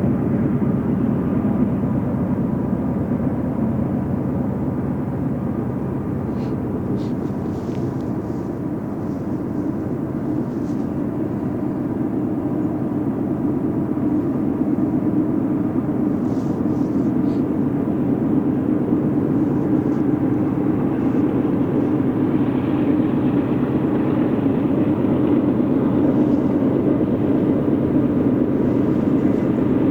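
Diesel-hauled train rumbling steadily past, with a low engine drone, growing a little louder toward the end.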